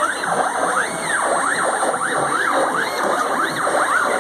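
Homemade three-axis CNC machine's stepper motors whining, the pitch gliding up and down several times a second as all three axes speed up and slow down together.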